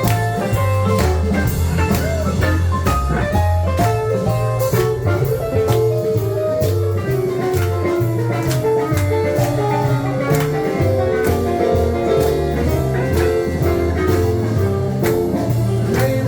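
Live band playing an instrumental passage: guitar over bass and drum kit, with a steady driving beat.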